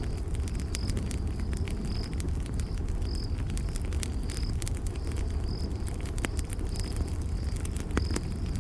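Campfire crackling, with frequent sharp pops over a low steady rumble of burning wood. A cricket chirps in the background, about once a second.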